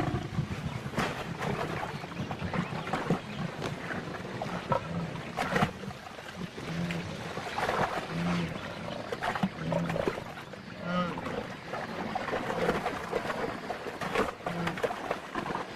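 A lioness growling as she attacks a wildebeest, with irregular thuds and scuffles of the struggle.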